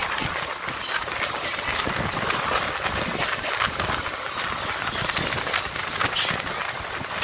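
Mumbai suburban local electric train running fast, heard from on board: a steady rattle of wheels on the rails with many quick clicks, over rushing air noise.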